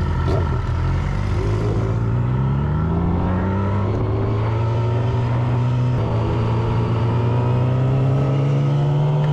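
Vehicle engine running, its revs dipping at first and then climbing slowly and steadily.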